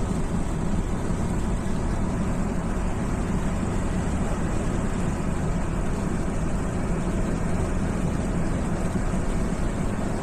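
Steady rumble of a car driving on a rain-soaked motorway, with constant tyre and road noise from the wet surface.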